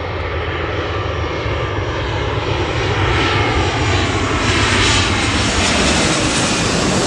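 Jet airliner passing low overhead, its engine noise building to a peak about five seconds in, with slowly sliding tones.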